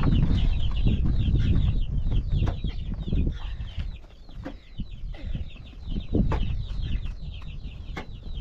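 Many birds chirping, with short, high, falling calls overlapping all through, over a low rumble and a few sharp knocks.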